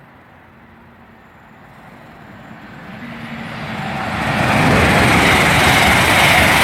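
A five-car Class 800 express train passing through at speed without stopping: a rushing noise that builds from about two seconds in and is loudest in the second half.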